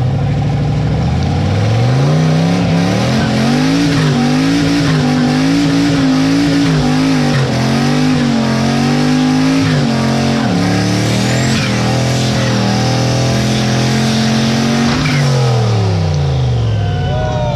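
Turbocharged V8 in a mini truck revving hard during a burnout, with tyres screeching. The revs climb in the first two seconds, hold high with wavering and a couple of brief dips, then drop away near the end.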